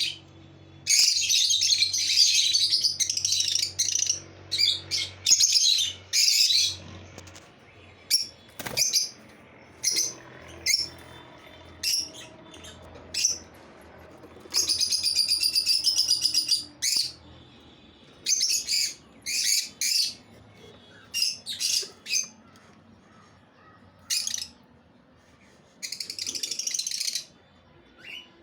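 Lovebirds chirping and chattering: many short, sharp, high chirps, with longer runs of rapid chatter, a couple of seconds each, near the start, around the middle and near the end.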